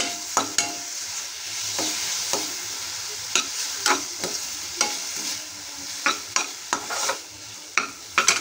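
Onions and tomato pieces frying in ghee in a steel kadai, sizzling steadily, while a metal spoon stirs them, scraping and knocking against the pan about twice a second in an uneven rhythm.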